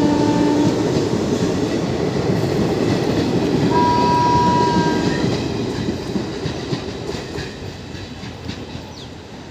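Indian Railways ICF passenger coaches passing at full speed: a dense rumble of wheels on the track with clickety-clack, and a brief steady high tone about four seconds in. The sound fades over the last few seconds as the train draws away.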